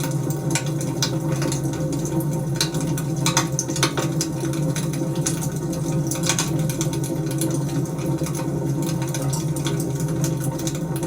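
Wood fire burning in a fireplace, with a steady low rumble and scattered sharp crackles and pops from the burning logs.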